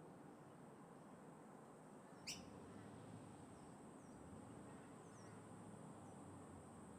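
Faint low hum of wind and distant traffic, with one sharp bird chirp about two seconds in and a few fainter chirps after it.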